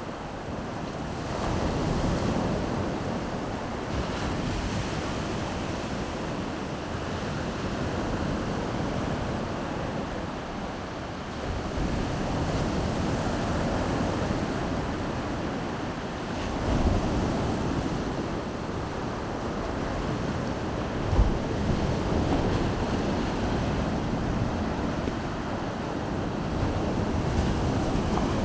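Baltic Sea surf washing onto the shore, a steady rush that swells and eases every few seconds. Wind buffets the microphone, with two brief low thumps in the second half.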